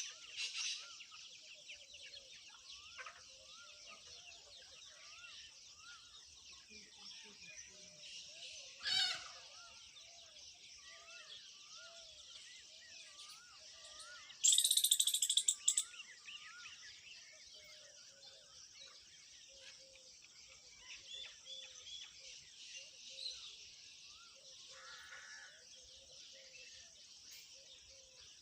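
Animal calls: many short repeated chirps over a steady high, hiss-like chorus, with one loud rapid chattering call about fifteen seconds in and a shorter one about nine seconds in.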